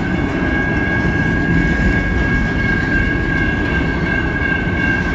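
Freight train of autorack cars rolling past at a grade crossing: a steady low rumble of wheels on rail, with a continuous high ringing tone over it.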